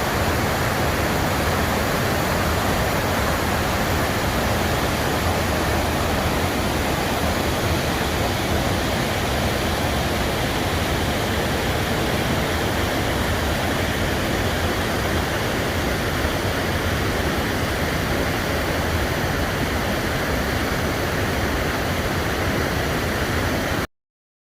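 Steady, loud rush of a large waterfall, Triple Falls, with no change in level; it cuts off abruptly near the end.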